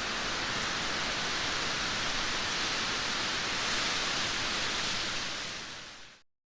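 Steady rain, a dense even hiss with no separate drops standing out, fading out over the last second or so and stopping about six seconds in.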